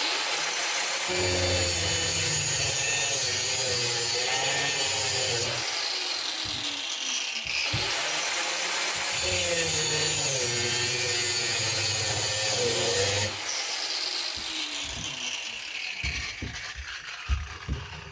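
Power grinder with a cutting wheel cutting through steel, starting abruptly and running steadily with a high whine that dips in pitch as the wheel bites. Near the end the cut stops and the tool winds down, with a few light knocks.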